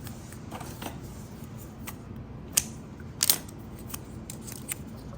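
Hands working with wires and electrical tape: small ticks and rustles, with a sharp click about two and a half seconds in and a quick pair of clicks just after three seconds.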